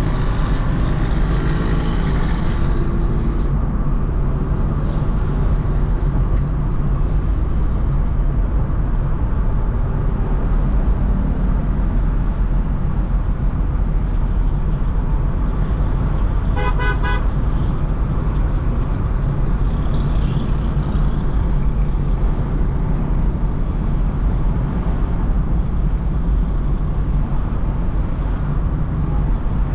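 Steady low rumble of a car driving through city traffic, with road and tyre noise. A vehicle horn honks once, briefly, about two-thirds of the way through.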